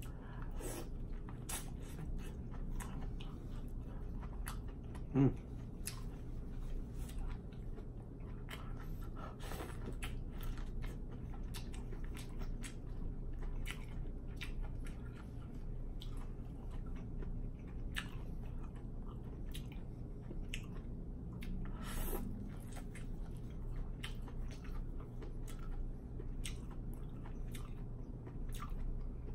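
Biting kernels off a boiled ear of corn on the cob and chewing them, with many small crunches and wet mouth clicks. A short louder sound comes about five seconds in.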